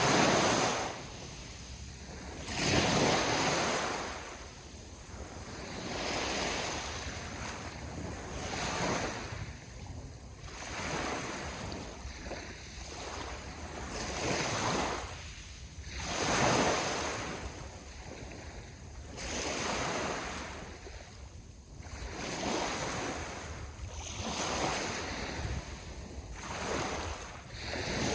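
Ocean waves breaking and washing on the shore, each surge swelling and ebbing every few seconds, with the strongest surges at the very start, about three seconds in and about sixteen seconds in. Wind buffets the microphone.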